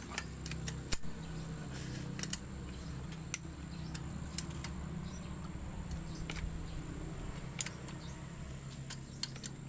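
Sharp metallic clicks and clinks at irregular intervals, about once a second, from hand tools working on the motorcycle's air cleaner housing as it is being removed, over a steady low hum.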